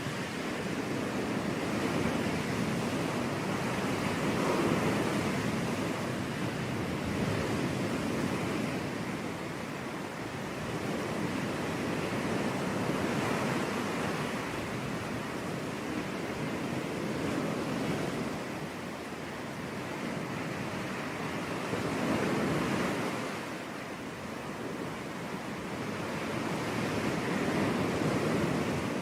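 Sea waves breaking on a beach, a continuous wash of surf that swells and falls back every few seconds as each wave comes in.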